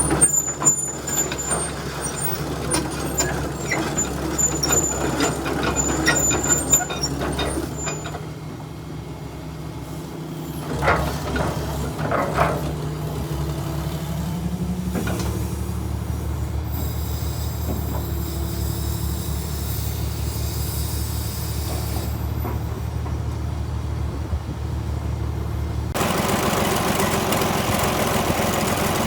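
Tracked excavator's diesel engine running steadily, with hydraulic hiss and scattered clicks and knocks. The engine pitch rises slightly about halfway through.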